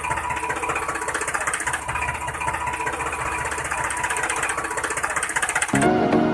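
A small motor running with a fast, even rattle, the sound of a DIY toy mini tractor's drive. Music comes in near the end.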